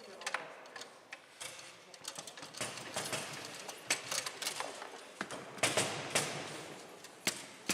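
Foosball play on a Bonzini table: irregular sharp clacks and knocks of the ball striking the players, rods and walls, with quick bunches of hits.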